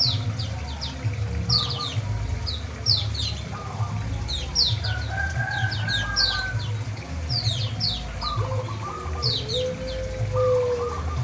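Small songbirds, white-eyes (pleci), chirping busily: a steady run of short, high notes that fall in pitch, with chickens clucking lower down.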